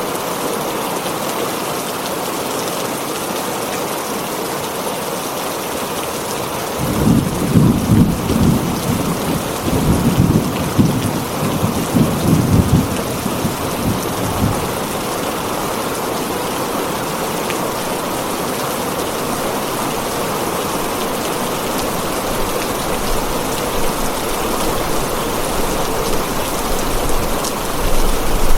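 Heavy rain drumming steadily on a tin roof. About seven seconds in, thunder rumbles in several low rolls for roughly seven seconds, then fades back under the rain.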